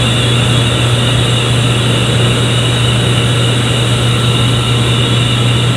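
Running industrial machinery: a steady loud drone with a strong low hum and a few faint steady high whines, unchanging throughout.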